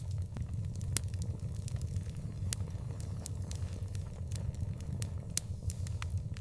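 Outdoor fire crackling, with frequent irregular sharp pops and snaps over a steady low rumble.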